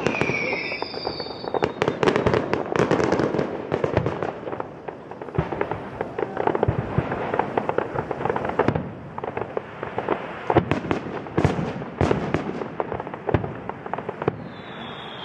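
Fireworks going off in rapid succession: a dense run of sharp bangs and crackles. A falling whistle sounds at the start, and another whistle comes in near the end.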